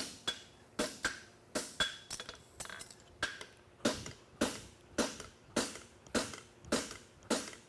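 Farrier's hammer striking hot steel horseshoe bar on an anvil in steady blows, a little under two a second, each with a short ring. It is drawing material into the toe of a double-caulkin hind shoe.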